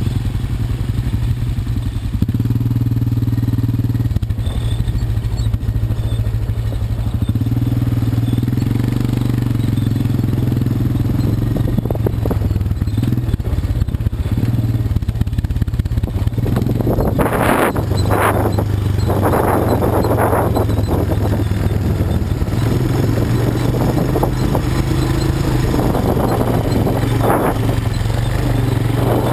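Quad bike (ATV) engine running under changing throttle, its pitch stepping up and down. From a little past halfway, bursts of rattling and knocking join in.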